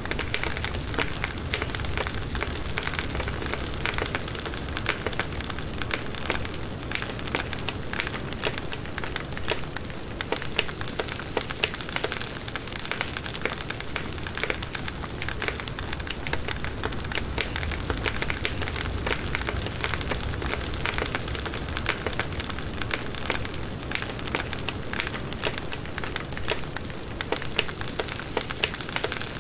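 Firewood burning in an open campfire, a steady stream of small crackles and pops over a soft hiss of flame.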